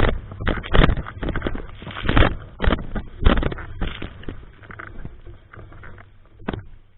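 Strong typhoon wind buffeting the microphone in irregular gusts, easing off near the end.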